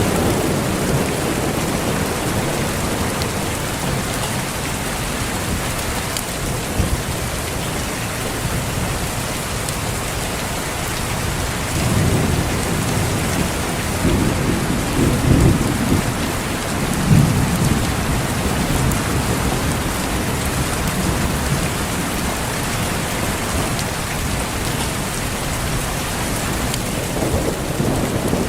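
Steady heavy rain with rolling thunder: a low rumble swells up about twelve seconds in and lasts for several seconds, with a louder peak around fifteen to seventeen seconds.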